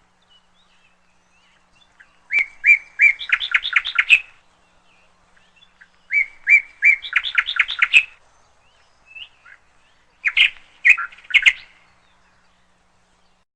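Canaries chirping in three short bouts. Each bout is a few spaced chirps running into a quicker series.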